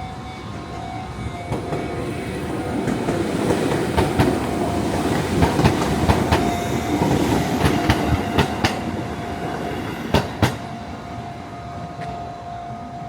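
Train running along the track, its rumble swelling and easing again, with sharp clicks of the wheels over rail joints, a close pair of them about ten seconds in. A steady high whine runs underneath.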